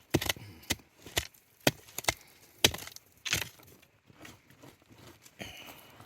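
Repeated sharp strikes of a hand tool, about two a second. They stop after about three and a half seconds, leaving only a few faint knocks.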